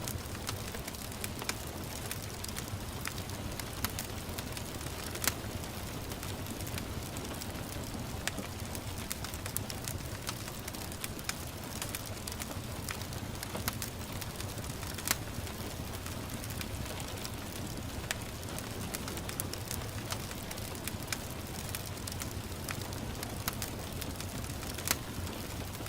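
Wood fire crackling, with scattered sharp pops, over a steady hiss of gentle rain.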